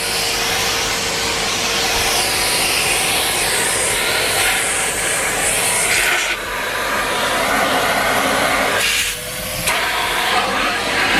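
Numatic Henry Pet vacuum cleaner running, a steady rush of suction air over a faint motor hum. The hiss dips briefly twice, about six and nine seconds in.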